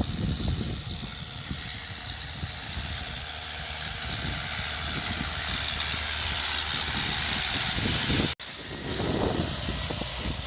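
Mahindra 575 tractor's diesel engine running steadily, with a constant hiss over it and wind buffeting the microphone. The sound drops out for an instant a little past eight seconds in.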